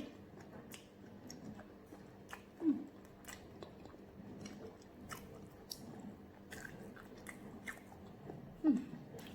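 Close-up chewing and biting of bushmeat, with many small wet clicks. Three short, low, falling throat sounds come at the start, about three seconds in and near the end.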